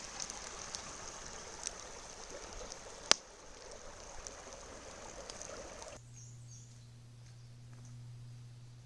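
Flowing stream water rushing steadily, with a few small ticks and one sharp snap about three seconds in. About six seconds in it cuts off abruptly to a faint, steady low hum.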